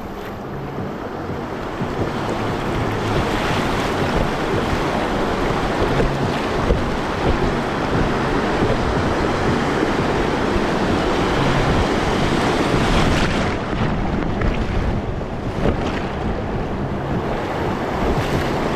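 River water rushing and splashing around a raft, with wind buffeting the action camera's microphone. The rush builds over the first few seconds and eases a little about two-thirds of the way through.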